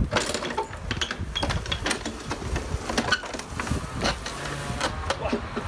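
Lawnmower running while cutting grass, a steady motor sound with irregular clicks and knocks over it.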